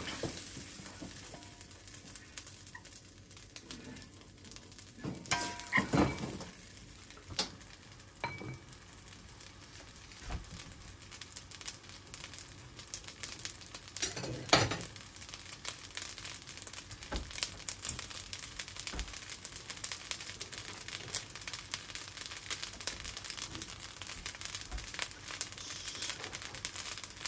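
Fried rice sizzling in a hot wok, with a few scrapes and knocks of the spatula against the wok about five to six seconds in and again about fourteen seconds in. Near the end chopped vegetables go into the pan, and the sizzle goes on.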